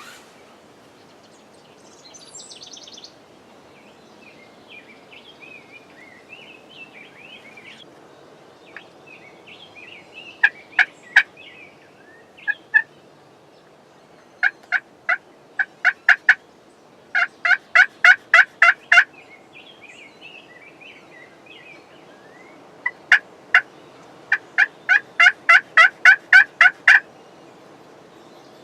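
Wild turkey yelping in several rapid runs of short, evenly spaced notes, about five a second, with the longest run near the end. Faint songbirds chirp between the runs.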